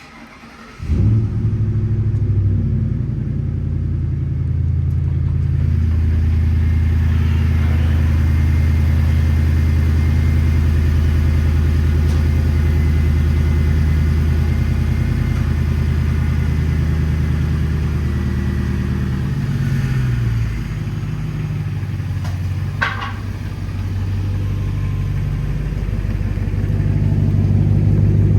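Piston aircraft engine catching about a second in and running steadily; the engine drops in pitch and level past two-thirds of the way through, then rises again near the end.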